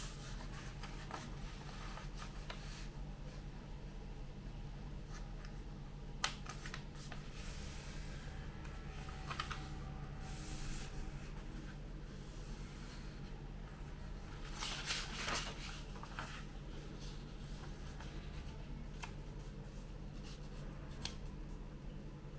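A sheet of A4 paper being folded and creased by hand: intermittent rustling and crinkling, with short sharp crease clicks, the loudest rustles about ten and fifteen seconds in. A steady low hum runs underneath.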